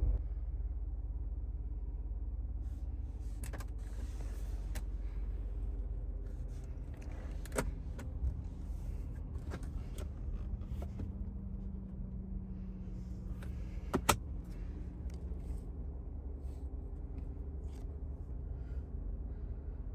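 Steady low road and engine rumble inside the cabin of a 2024 Cadillac Escalade being driven, with a few sharp clicks, the loudest about fourteen seconds in.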